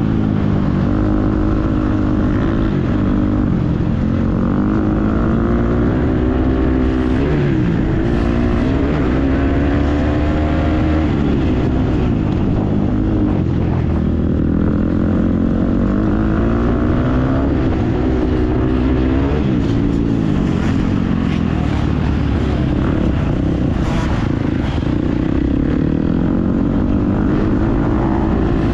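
Motocross dirt bike engine being ridden hard, its pitch climbing and dropping back over and over as the rider opens and closes the throttle.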